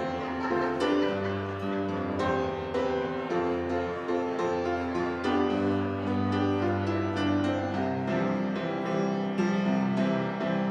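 Piano music, sustained chords with notes struck every second or so.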